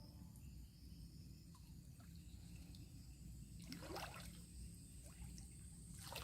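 Faint river water trickling and splashing, with two louder splashes, one about four seconds in and one near the end, over a steady high-pitched tone.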